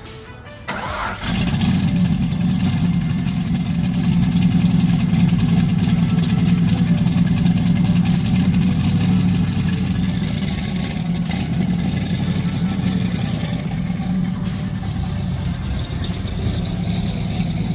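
A car engine comes in suddenly about a second in, then runs loud and steady at idle with a deep, even rumble.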